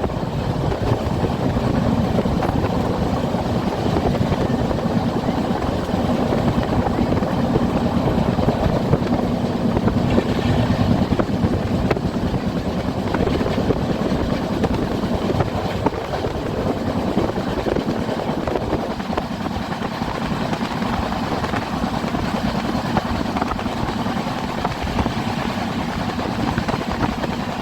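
Passenger train running along the track, heard from on board: a steady rumble that holds at an even level.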